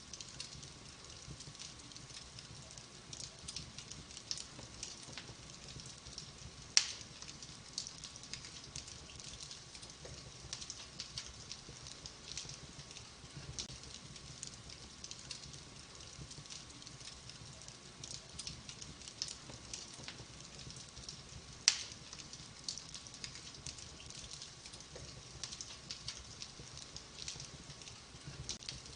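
Fireplace fire crackling with many small, irregular crackles, and two loud sharp pops, one about 7 seconds in and one about 22 seconds in.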